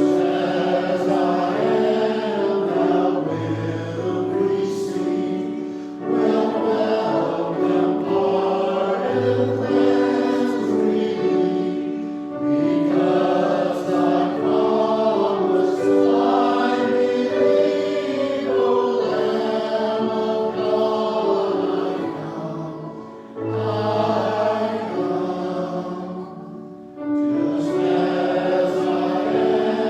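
A hymn sung by a group of voices with accompaniment. It moves in phrases of several seconds, with brief breaks between them and low bass notes coming in under some phrases.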